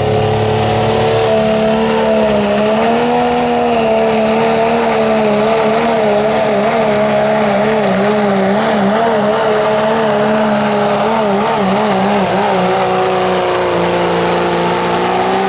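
Diesel 4WD pickup truck engine at full throttle, pulling a sled down the track. It is held at high revs throughout, and its pitch wavers up and down in the middle of the pull as the load and traction vary.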